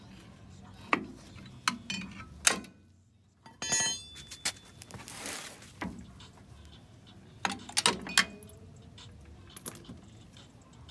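Metal drum-brake hardware (springs, shoes, adjuster) clinking and knocking as it is worked off with pliers: scattered sharp clicks, a ringing metallic jangle about four seconds in, a short rushing noise around five seconds, and a cluster of loud clinks near eight seconds.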